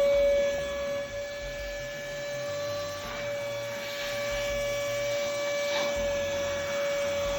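Vacuum cleaner motor running at full speed with a steady high whine, having just spun up.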